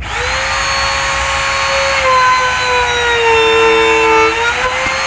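Bosch GMR 1 palm trim router running with a steady high-pitched whine, starting abruptly; its pitch sags from about two seconds in as the bit is loaded cutting into wood, then recovers near the end.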